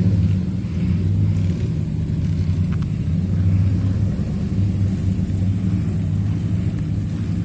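Pickup truck engine running steadily at low revs with a low rumble, with the truck strapped to a stuck tractor for a recovery pull.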